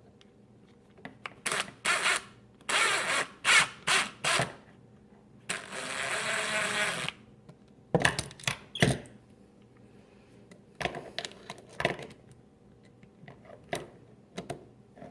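Cordless drill with a magnetic nut driver running in short bursts, then a steadier run of about a second and a half, as it drives a screw and nut on the inlet valve bracket. Sharp clicks and light rattling of metal parts being handled follow.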